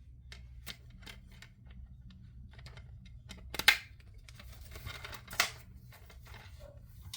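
Scattered light clicks and taps over a steady low hum, with two louder sharp clacks, one a little past halfway and one about a second and a half later.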